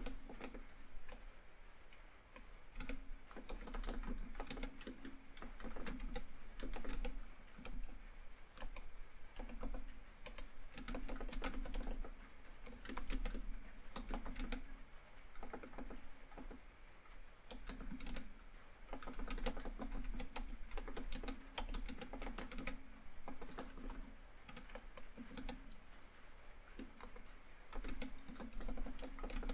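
Typing on a laptop keyboard in quick runs of key clicks with short pauses, over a steady background of rain falling on a tin roof.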